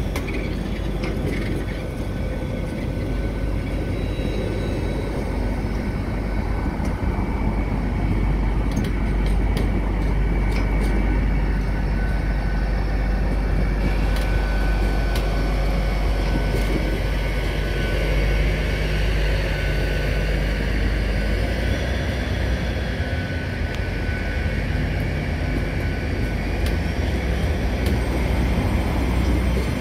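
LNER Class 800 Azuma bi-mode train passing slowly at close range, running on its underfloor diesel engines, with a steady low rumble and a few steady tones over it and faint clicks from the wheels.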